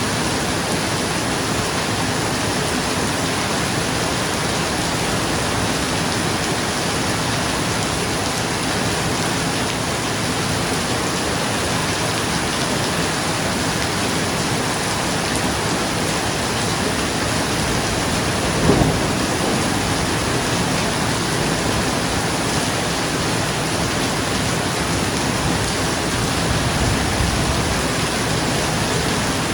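Steady rain falling on a roof, with a short, loud clap of thunder about two-thirds of the way through and a fainter low rumble near the end.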